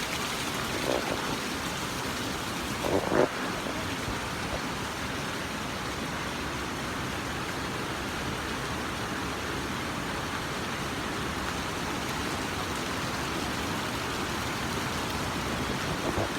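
Steady heavy rain falling, an even hiss throughout, with a brief louder sound about three seconds in.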